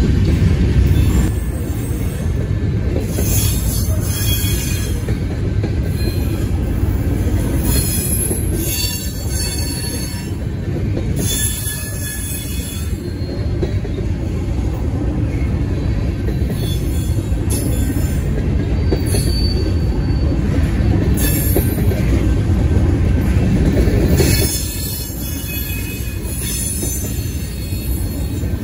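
Covered hopper cars of a freight train rolling past at close range: a steady rumble of steel wheels on rail, with high-pitched wheel squeal coming and going every few seconds.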